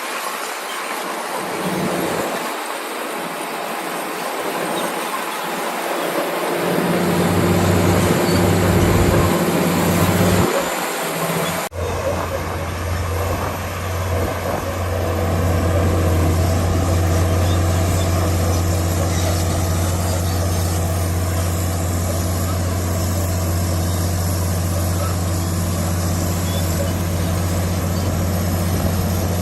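Heavy diesel engine of a bulldozer running with a low drone. About twelve seconds in, the sound breaks off abruptly, and after that the engine drone is steady and louder.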